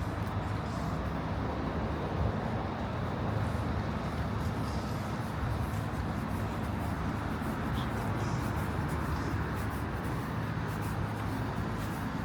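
Steady city street ambience: a constant low wash of road traffic noise.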